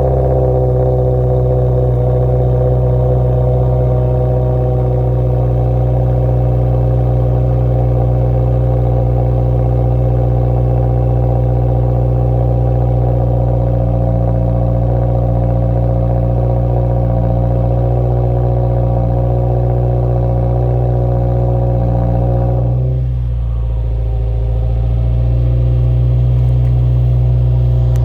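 2017 Subaru WRX's turbocharged 2.0-litre flat-four idling steadily through a Remark Cutback exhaust on a cold start. About 23 seconds in, the idle dips briefly, then settles back.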